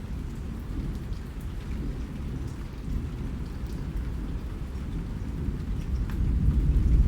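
Steady rain with scattered drop ticks over a deep rolling rumble of thunder that swells near the end.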